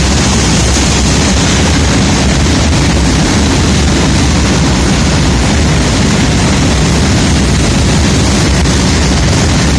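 Freight train hauled by an EMD diesel locomotive passing close by: a loud, steady rumble of wheels on rail, heaviest in the low end, with no let-up.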